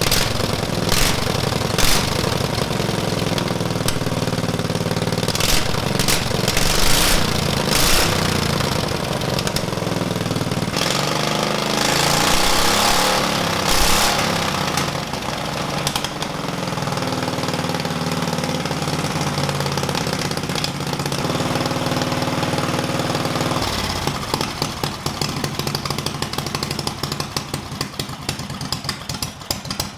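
Homemade motorcycle's small single engine running with its exhaust cut off and no muffler, blipped up in short revs through the first half. About three-quarters of the way in it drops to a slow, choppy idle with each firing stroke heard separately.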